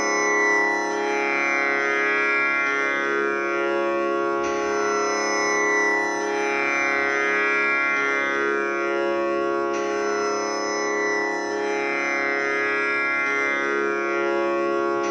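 Tanpura drone tuned to C#, its strings plucked in a steady repeating cycle. The buzzing overtones sweep and shimmer within each cycle, which comes round about every five seconds.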